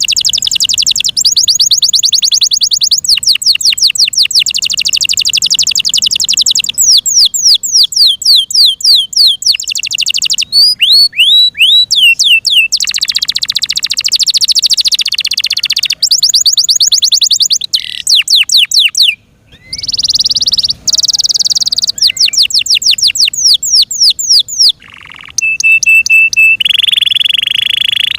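F1 Yorkshire canary singing a long, varied song of fast trills and rolling repeated notes, broken by a short pause about two-thirds through, with a held high whistle near the end.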